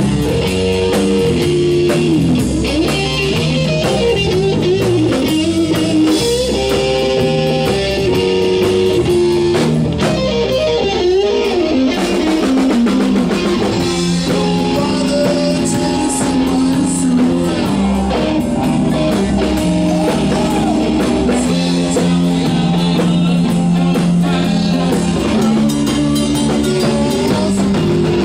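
A live rock band playing an instrumental passage: a guitar lead with sliding, bending notes over bass and drum kit.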